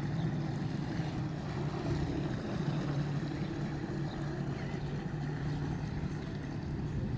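Jet ski engine idling in neutral, a steady low hum that holds one even pitch.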